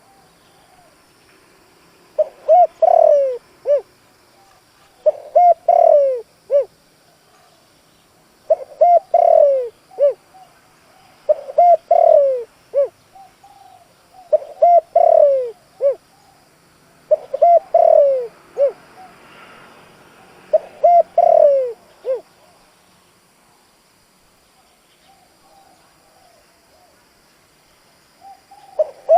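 A decoy spotted dove cooing its song over and over, each phrase a short run of pitched coos. Seven phrases come about three seconds apart, then a pause of some six seconds before the next begins.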